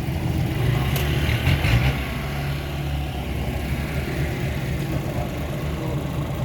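A heavy engine running steadily with a low hum, with one sharp click about a second in and a brief rise in hiss just after it.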